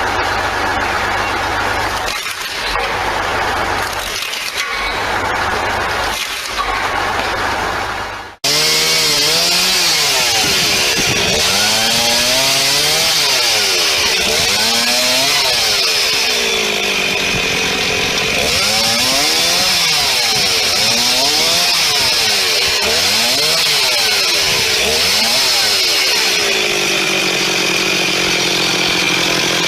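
A motor running steadily, dipping a few times, then after a sudden cut about eight seconds in, a small engine revving up and down over and over, its pitch rising and falling in repeated sweeps.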